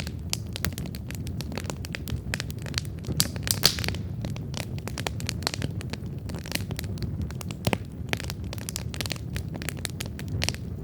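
Wood campfire burning, with dense irregular crackles and pops over a steady low rumble of the flames; a flurry of louder pops comes a few seconds in.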